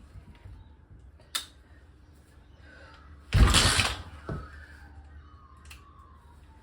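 Old dirt bike being kicked over without firing: a sharp click, then a loud rush of under a second as the kick-starter turns the engine, with no running engine note after it.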